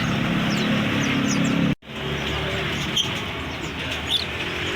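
Caged songbirds chirping and whistling in short calls over the steady hum of a running engine. The sound drops out completely for a moment about two seconds in.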